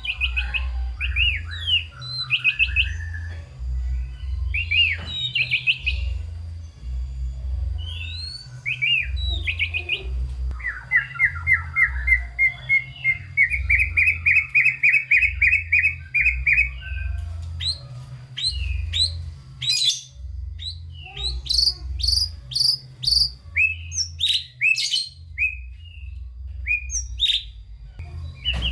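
White-rumped shama (murai batu) singing a varied song packed with mimicked phrases. The song has a fast run of repeated chattering notes around the middle, then a string of short, sharp whistled notes.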